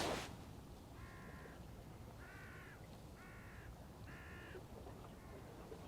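A crow cawing in the distance: five short, faint caws about a second apart, the last one faintest.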